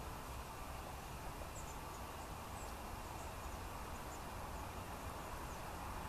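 Faint, very high, thin chirps of small birds, scattered through, over a steady background hiss and low rumble.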